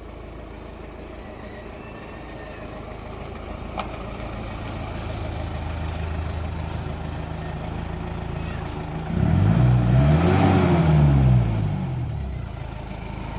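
Road traffic: a motor vehicle's engine hum builds, then a vehicle passes close about nine seconds in, its engine pitch sweeping up and then down as it goes by.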